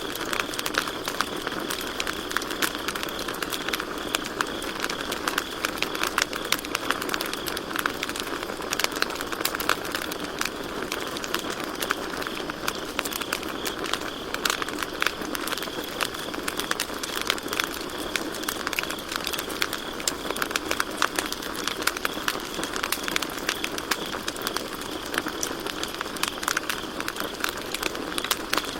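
Campfire crackling with a steady stream of small sharp pops and snaps, over crickets chirping in a continuous high trill.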